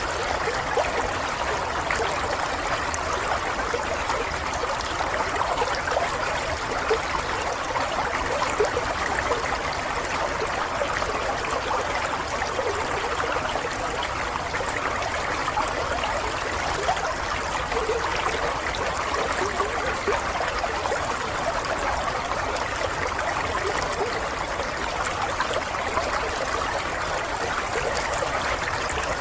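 Running water, a steady flow with a fine, continuous splashing texture and no change in level.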